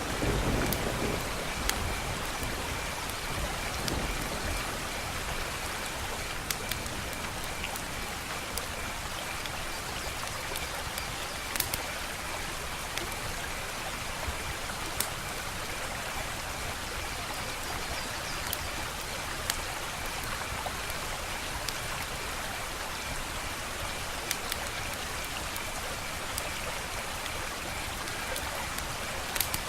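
Wood fire crackling: a steady hiss with sharp pops every second or two, and a low rumble in the first second.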